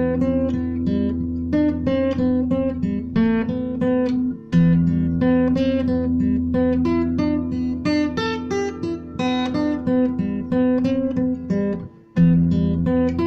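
Acoustic guitar instrumental: a melody of plucked notes over a steady low bass, with a brief break about four seconds in and another near the end.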